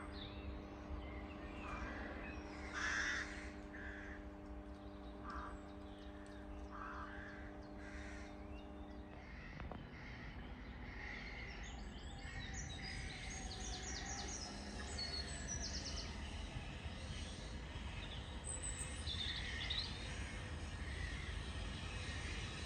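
Crows cawing in short repeated calls, the loudest about three seconds in, over a steady low hum of several tones that cuts off about nine seconds in. Smaller birds chirp in quick high runs later on.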